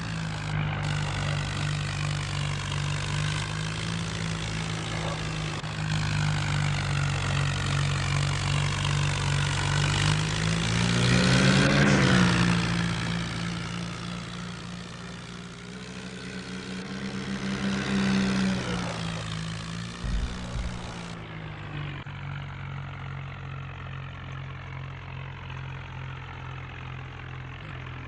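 Swaraj tractor's diesel engine running, its pitch and loudness rising to a peak about twelve seconds in and falling away, then swelling again around eighteen seconds.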